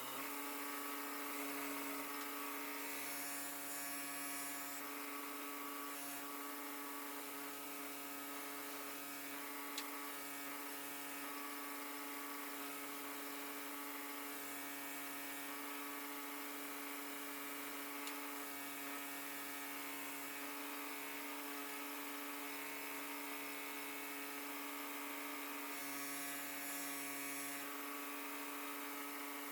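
2 hp electric motor, run from a VFD, spinning the belt grinder's buffing-wheel attachment at a steady speed: an even whine over a hum. Brief spells of hiss come a few seconds in and near the end, with a single tick about ten seconds in.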